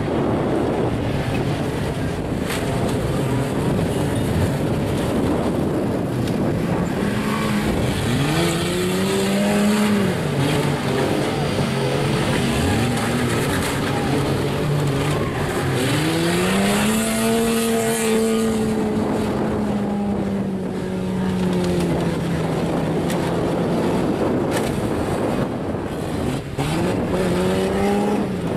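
Car engines revving and running under load in a demolition derby, the engine pitch rising and falling several times over a steady rushing noise.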